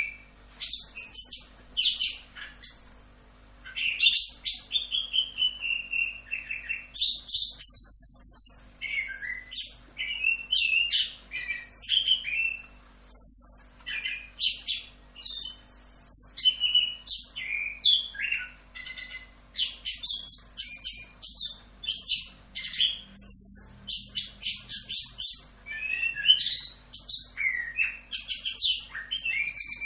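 Chestnut-capped thrush (anis kembang) singing a fast, continuous rolling song of quick varied whistles and chattering phrases, with a brief lull about three seconds in.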